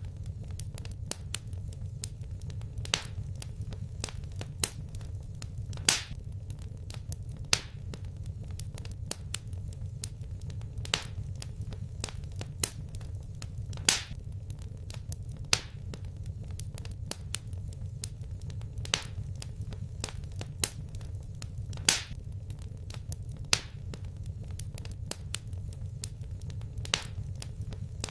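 Wood fire in a fireplace crackling: irregular sharp pops and snaps, several a second and some much louder, over a steady low rumble of the flames.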